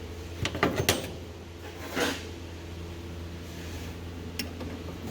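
Sharp metallic clicks and knocks of a hand wrench and tools being handled at a truck's starter: a quick cluster of clinks, a short scrape about two seconds in, and two single clicks near the end, over a steady low hum.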